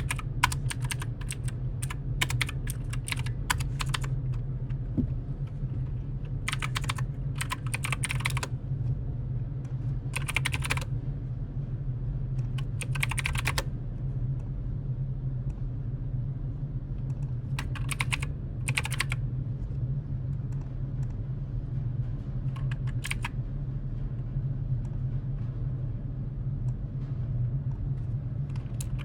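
Typing on a computer keyboard in short bursts of keystrokes with pauses between them, over a steady low hum.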